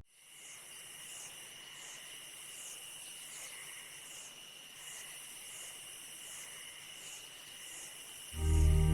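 Faint insect chorus: a high, steady chirring that pulses about twice a second over a thin continuous high tone. Music comes in near the end.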